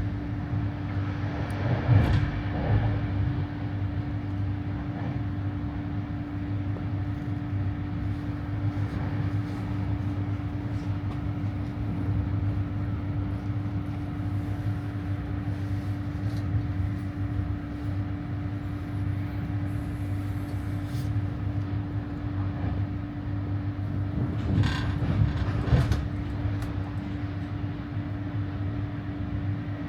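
ÖBB regional express train running along the line: a steady rumble of wheels on rail with a constant hum, and a few short knocks about two seconds in and again near the end.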